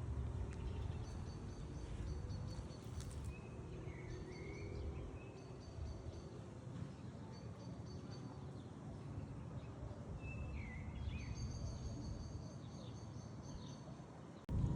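Small birds chirping in quick repeated trills, with a few short whistled down-slurs, over a steady low outdoor rumble. A louder rumble cuts in abruptly right at the end.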